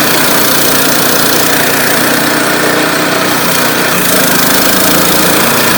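Sawmill engine running under load as the band blade cuts lengthwise through a large oak log: a loud, steady mechanical din. The low end deepens about four seconds in.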